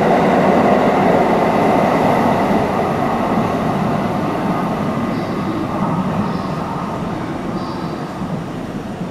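JR West 683 series Thunderbird electric train pulling out of the platform, its running noise on the rails fading steadily as it moves away, with a few faint high squeaks in the second half.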